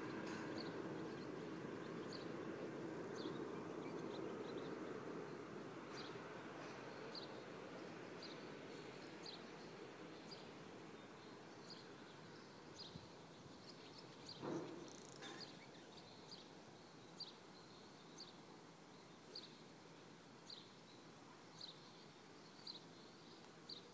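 Faint outdoor ambience: a small bird's high chirp repeats about once a second over a distant vehicle rumble that fades away in the first half, with one short knock about halfway through.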